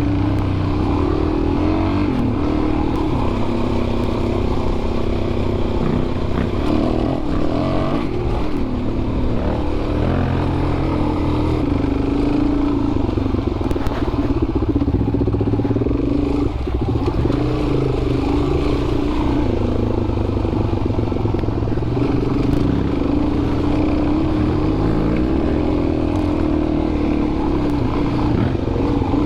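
Dual-sport motorcycle engine running steadily under way on a dirt trail, its note wavering up and down with the throttle. It eases off briefly about halfway through.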